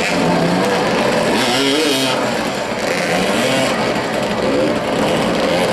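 Several motoball motorcycles running at once, their engines revving up and down in overlapping, wavering pitches as the riders manoeuvre.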